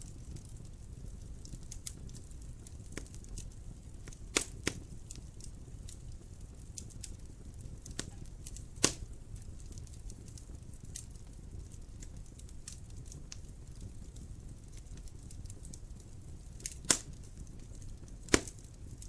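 Wood fire in a fireplace crackling, with a low steady rumble of burning, scattered small snaps and a handful of louder sharp pops.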